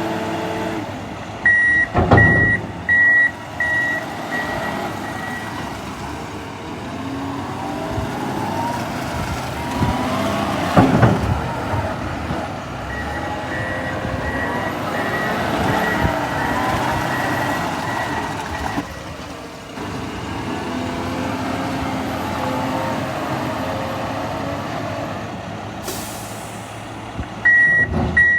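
Heavy diesel equipment working: a John Deere 544L wheel loader's engine running and revving up and down as it loads snow into dump trucks, with two heavy thuds, about two seconds and eleven seconds in. A backup alarm beeps in a quick run near the start, fainter in the middle, and starts again at the very end.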